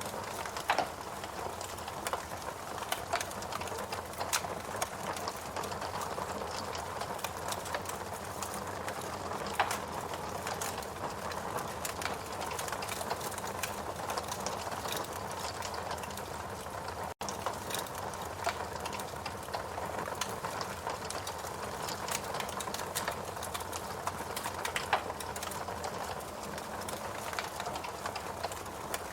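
Wood logs burning in a fireplace: a steady hiss of flame with constant small crackles and a few louder pops, the loudest about a second in and near ten seconds.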